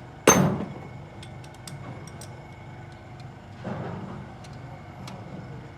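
A sharp knock about a third of a second in that dies away quickly, then a softer knock near four seconds, over a steady low hum and faint scattered ticks.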